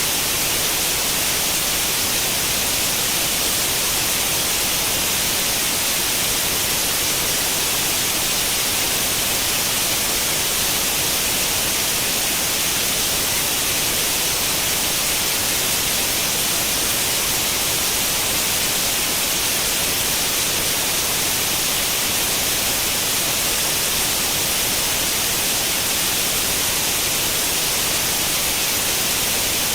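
Steady white noise imitating the static hiss of an old tube television tuned to no channel, even and unbroken, strongest in the high frequencies.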